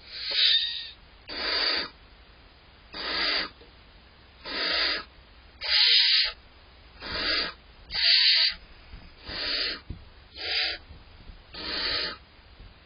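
Barn owl owlets giving rasping, hissing food-begging calls (the 'snoring' call), about ten calls in a row, each roughly half a second long and a little over a second apart.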